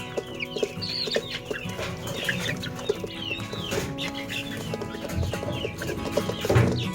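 A flock of chickens clucking and calling, many short calls overlapping throughout.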